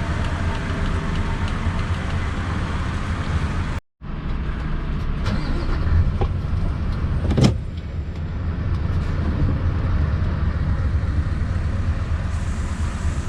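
Scania V8 truck engine running steadily at low speed. The sound cuts out for a moment about four seconds in, and there is one sharp knock about seven seconds in.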